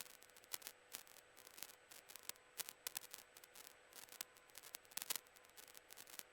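Faint crackling static on the cockpit radio and intercom audio feed: irregular clicks and pops over a low hiss, with a faint steady tone underneath.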